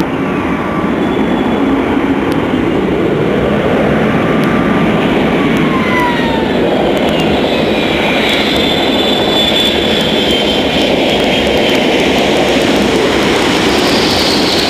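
Boeing 777 jet engines during a rejected takeoff: a steady loud roar, with turbine whine tones gliding downward around the middle.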